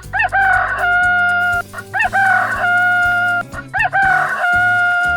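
Rooster crowing three times, each crow opening with short rising notes and ending in a long held note, over background music.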